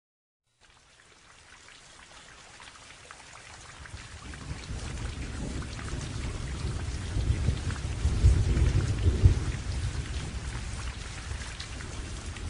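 Steady rain with a low rumble of thunder, fading in from silence and growing louder, the thunder strongest a little past the middle.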